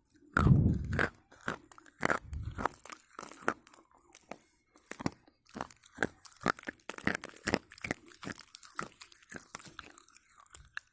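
Slate pencil being bitten and chewed: a loud bite about half a second in and another near two seconds, then steady crunching chews.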